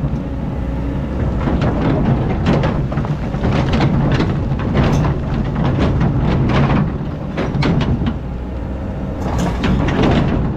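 Hydraulic excavator's diesel engine running steadily, with scattered knocks and scrapes from the machine working.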